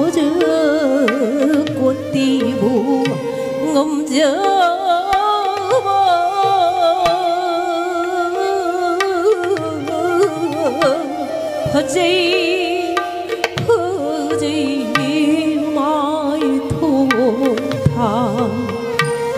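Manipuri classical dance music played live: a woman singing with flute and violin over a hand-played drum, the melodic lines wavering with vibrato.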